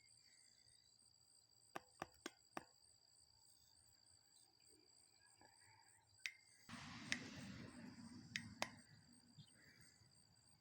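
Faint, steady high-pitched trilling of crickets, with a few sharp clicks: four close together about two seconds in, more later. A brief rustling noise runs from about seven to nine seconds.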